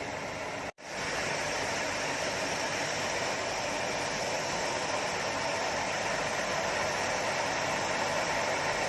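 Steady rushing noise, cut off for an instant less than a second in and then resuming unchanged.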